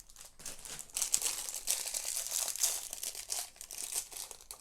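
Plastic bags of Lego pieces crinkling and rustling as hands rummage through them, with small clicks of loose plastic parts.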